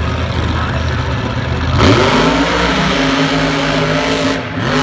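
Truck engine idling, then revved up sharply about two seconds in, held high for a couple of seconds and let back down near the end.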